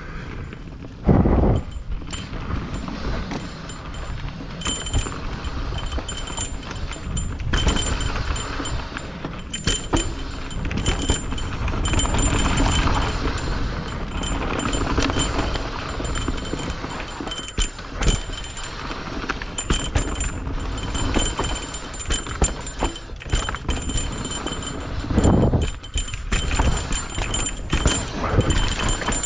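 Mountain bike being ridden over a rough trail: steady tyre and ride noise with frequent clicks, rattles and knocks from the bike, and several heavier jolts, one about a second in and more near the end.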